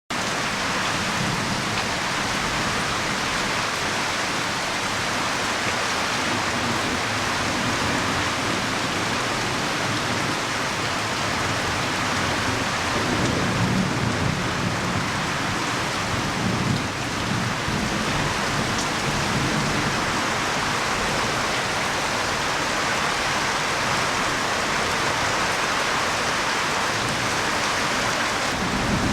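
Heavy rain pouring down in strong wind: a steady, dense hiss, with deeper rumbling surges about halfway through.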